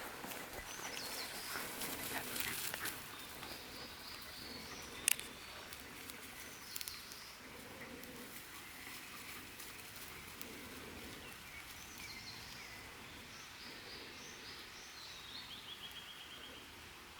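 Wild birds calling: scattered short chirps and whistles, with a quick trill near the end. Footsteps crunch on the path in the first few seconds, and there is a single sharp snap about five seconds in.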